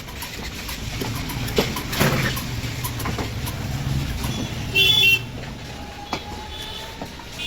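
Road traffic: a motor vehicle's engine rumbles past, and a horn gives one short loud beep about five seconds in, with a fainter beep near the end. Scattered sharp clicks sound throughout.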